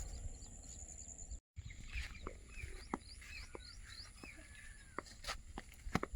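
Faint birds chirping in short, repeated falling calls over a steady high-pitched insect drone, with scattered sharp clicks. The sound cuts out completely for a moment about a second and a half in.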